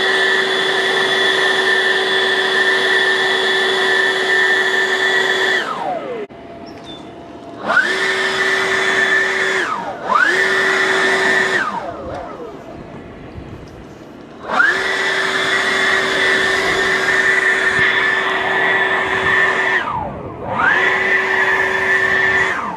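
Electric blower motor running with a steady high whine, switched off and on several times. It winds down with falling pitch about six seconds in, then spins up with rising pitch and cuts out again three more times, starting up once more near the end.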